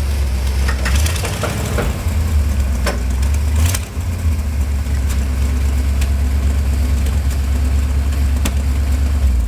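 Engine of a 1971 International 1890 truck running with a heavy, steady low rumble, dipping briefly about four seconds in, with a few sharp knocks or clanks over it.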